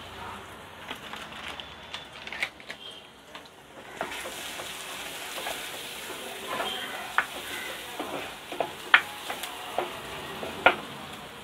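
Wooden spatula stirring sautéing small onions and turmeric in an unglazed clay pot, with scattered scrapes and taps on the pot over the sizzle of frying oil. The sizzle grows steadier about four seconds in.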